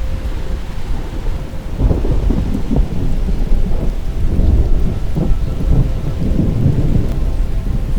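Desert summer thunderstorm: rain falling under a deep, continuous rumble of thunder that swells into uneven rolling surges about two seconds in.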